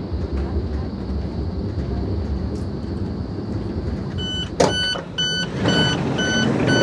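Inside an ICE high-speed train as it rolls into the station: a steady low rumble, then a run of evenly spaced electronic beeps, a little over two a second, from the train's door signal. A single sharp clack comes just after the beeping starts.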